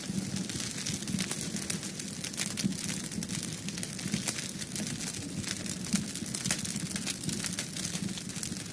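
Wood fire in a fireplace burning, with irregular sharp crackles and pops over a low steady rumble of the flames.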